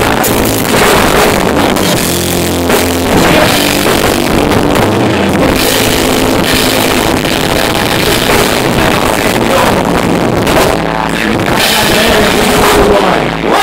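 Live rock band playing loud, with drum kit and guitar, recorded from the audience with muddy, distorted sound.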